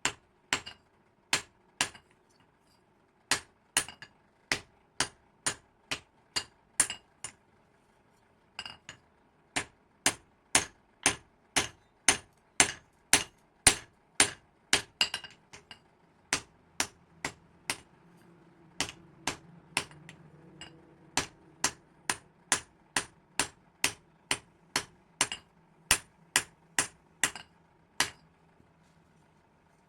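Hand hammer striking hot metal on an anvil, blows about two a second in steady runs with short pauses about two and eight seconds in. A faint low hum comes in during the second half.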